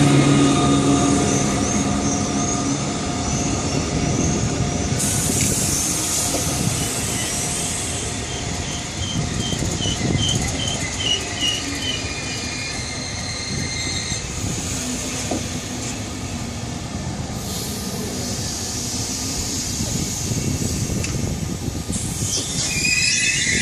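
A train rolling past on the rails: steady wheel-on-rail rumble, with high thin wheel squeals that come and go.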